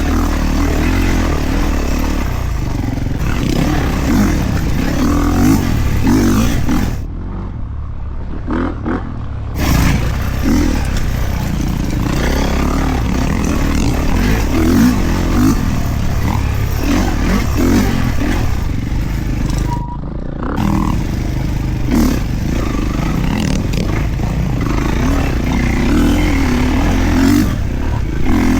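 Kawasaki KX450 four-stroke dirt bike engine being ridden off-road, its note rising and falling with the throttle. The engine eases off for a couple of seconds about a quarter of the way in, and again briefly about two-thirds in.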